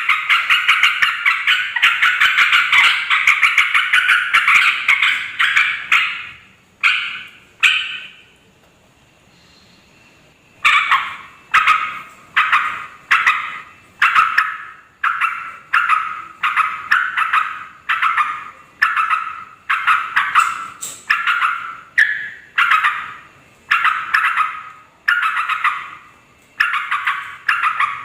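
Yellow-vented bulbuls (trucukan) calling: a dense burst of overlapping chattering calls for about six seconds, then a short pause, then a steady run of separate calls, about one and a half a second.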